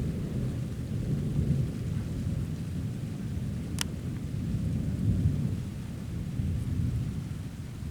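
Thunder rumbling low and long, rolling on through the whole stretch, with rain falling; one sharp click about four seconds in.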